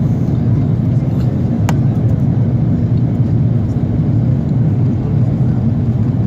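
Steady low rumble of engines and airflow heard inside the cabin of an Airbus A330 airliner, with a single sharp click about two seconds in.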